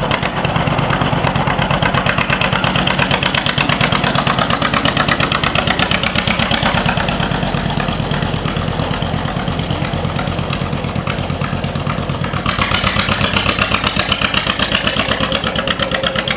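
John Deere Model B's two-cylinder engine running with an even, pulsing exhaust beat. About twelve seconds in it gets louder and sharper.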